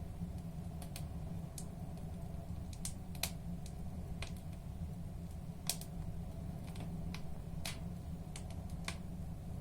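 Firewood burning in a fireplace, crackling with a dozen or so irregular sharp pops over a steady low background.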